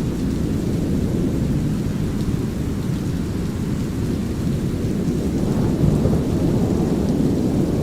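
Steady brown noise with a light rain hiss and thunder rumbling low underneath; the rumble swells briefly about six seconds in.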